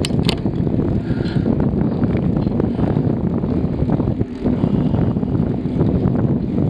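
Wind buffeting the microphone of a camera riding along on a moving bicycle: a loud, steady, low rumble.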